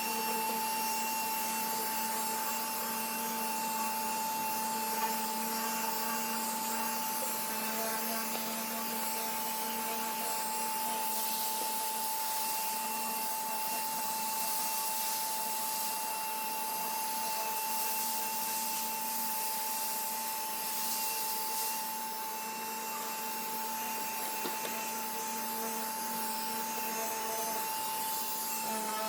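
A small electric motor running steadily: a constant whine with a hiss over it, unchanged for the whole stretch.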